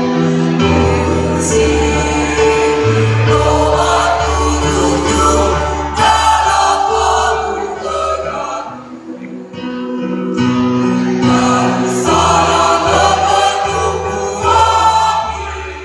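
A choir singing in parts, holding sustained chords that change every second or so, with a short break between phrases about nine seconds in.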